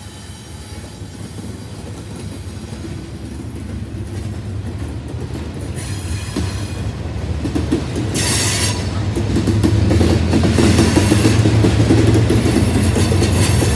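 Freight train cars, a tank car and covered hoppers, rolling past close by: steel wheels rumbling and clacking over the rail joints, growing steadily louder, with a brief high hiss about eight seconds in.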